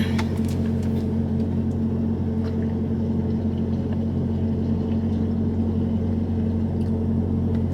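Semi truck idling, a steady low engine hum heard from inside the cab.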